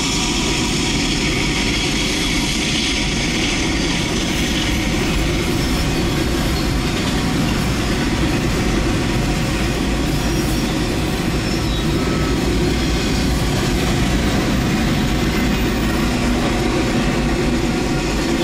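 Railroad cars rolling past, a loud, steady rumble of steel wheels on the rails.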